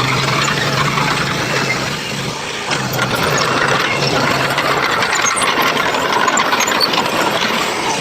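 Heavy construction machine's engine running with a steady low hum and a constant clattering rattle; the low hum drops away about five seconds in while the rattling goes on.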